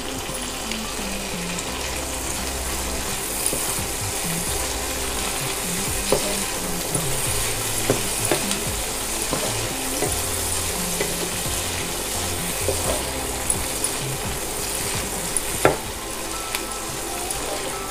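Dried salted ribbon fish frying in oil in a nonstick pan, a steady sizzle as its moisture cooks off, with a few scrapes and taps of a slotted spatula as it is stirred.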